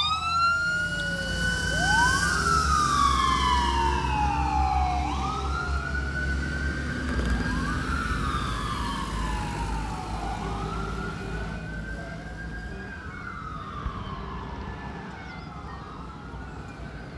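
Sirens of a fire engine and an ambulance on an emergency run, wailing in slow rising and falling sweeps, two sirens out of step with each other, fading steadily as the vehicles drive away. A low engine rumble lies underneath in the first half.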